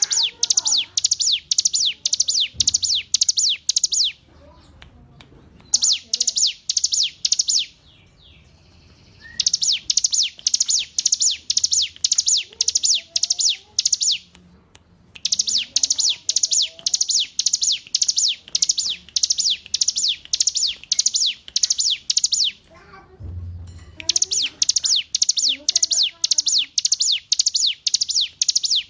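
Ciblek gunung (a mountain prinia) singing: long runs of rapid, evenly repeated high, sharp notes, several a second, broken by a few short pauses. Fainter, lower chirps sound beneath it.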